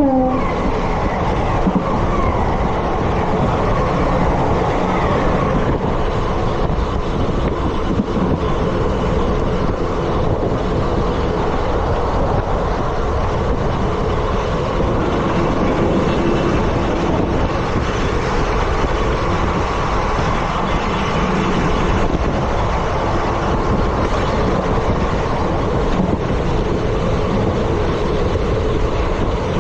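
Indian Railways ICF passenger coach running at speed: a steady, loud rumble and rattle of its wheels on the rails, with no let-up.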